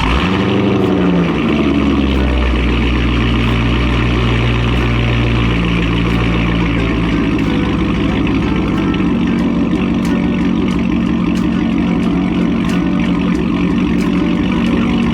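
A car engine running loud and steady, with a brief rise and fall in pitch right at the start.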